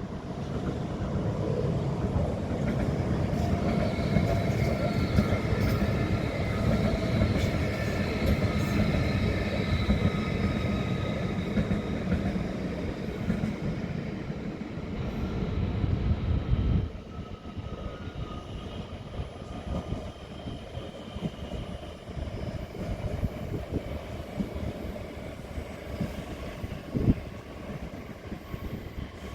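A train running through a station: a loud rumble of wheels on rail with several steady high whining tones over it. The sound cuts off abruptly a little past halfway, leaving a quieter rail background with a single knock near the end.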